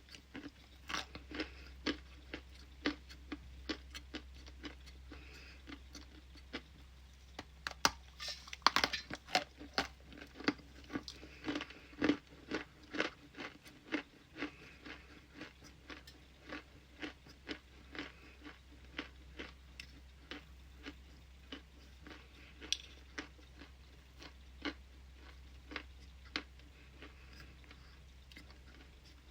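Close-up crunching of ice being bitten and chewed: sharp crisp cracks, about one to two a second, with a louder rapid flurry about eight seconds in.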